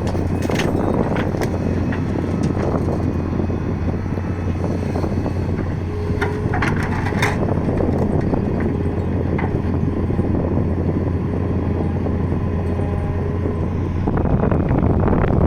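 Diesel engine of a Doosan 200W wheeled excavator running steadily with a deep drone while loading, with scattered sharp knocks and clatter. It gets louder near the end.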